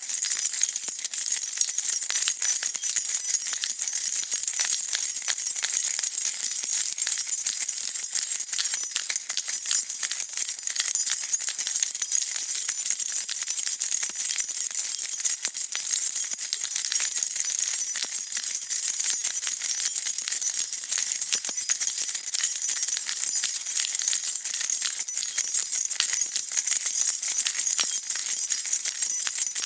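A bunch of metal keys being shaken and jingling without a break: a dense, steady run of bright metallic clinks.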